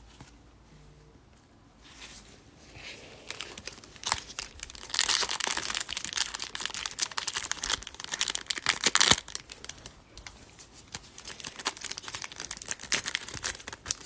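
Trading-card pack wrapper being torn open and crinkled by hand. It starts softly about two seconds in, is loudest through the middle with a sharp snap near nine seconds, then goes on as quieter crinkling.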